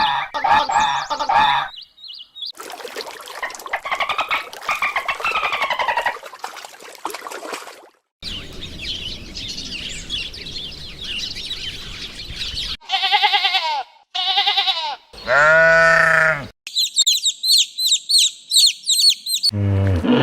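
A string of different animals' calls spliced one after another, each lasting from about one to four seconds, with abrupt changes between them. They include chirping, squawking and bleating cries, and near the end a high call repeated rapidly.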